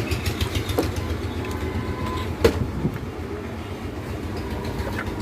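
Steady low rumble under a few clicks and knocks of plastic fan parts being handled and fitted together, with one sharp click about halfway through.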